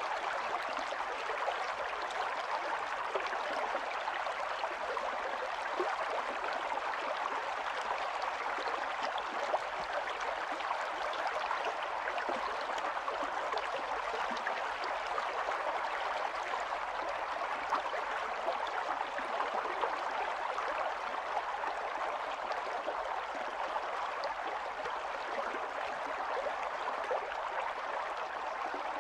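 Small stream of running water babbling and gurgling steadily over stones, with no change in flow.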